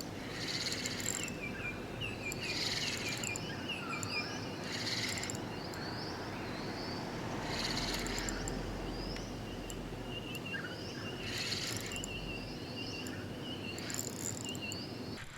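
Birds chirping, with many short rising notes and a harsher call every few seconds, over a steady low background rumble.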